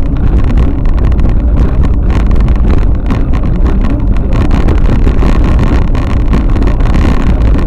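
Loud, steady vehicle noise with a deep rumble and wind buffeting the microphone.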